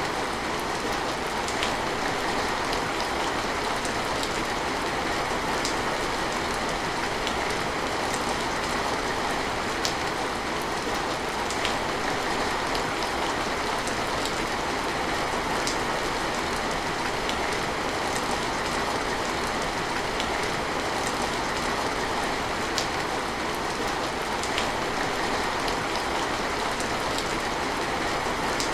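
Steady heavy rain, an even hiss with occasional sharper drop taps scattered through it.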